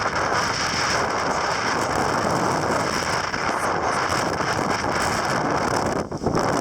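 Storm-force wind of 40+ mph buffeting the microphone: a loud, steady rush of wind noise that dips briefly about six seconds in.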